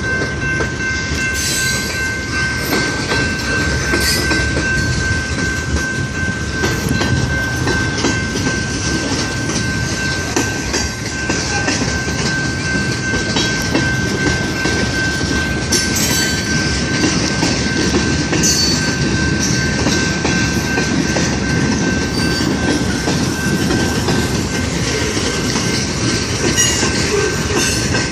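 Freight train cars rolling past with a steady rumble and clatter of wheels on rail. A thin, high, steady tone runs through it, and short sharp clicks come every few seconds.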